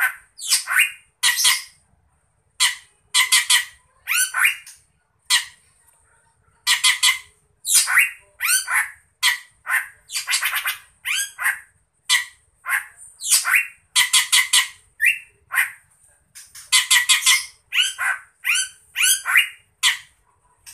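A bird calling over and over in short, harsh squawks and chirps, some rising or falling quickly in pitch, with brief pauses between bursts.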